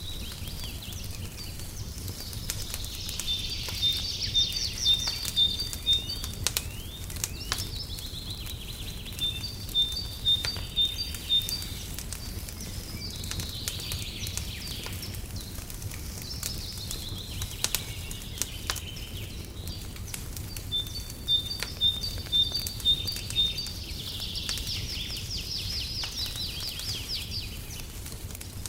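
Songbirds calling in repeated runs of five or six short high notes, some with trills, every several seconds. Beneath them, a wood fire crackles and pops over a steady low rumble.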